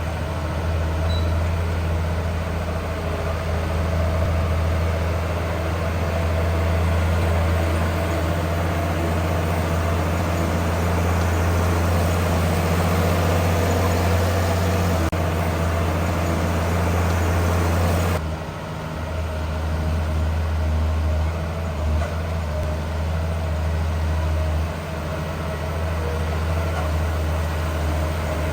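Heavy diesel engine of earthmoving machinery running steadily under load, with a deep, even hum. The sound changes abruptly about two-thirds of the way through, then carries on at a slightly lower level.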